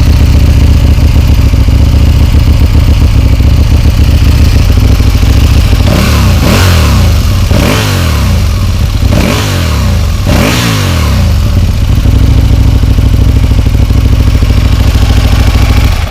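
Aprilia Tuono motorcycle engine idling through its standard stock exhaust, with the baffles and catalytic converter in place. It is blipped four times in quick succession, each rev rising and falling back, then settles to idle again.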